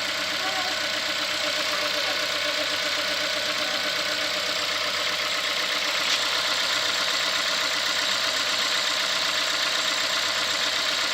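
A 2016 Ford Fiesta's 1.6-litre inline four-cylinder engine idling steadily, warmed up after a cold start. This is its normal running sound.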